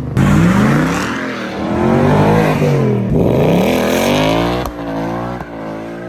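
A car engine revving, its pitch rising and falling several times as the throttle is blipped and released.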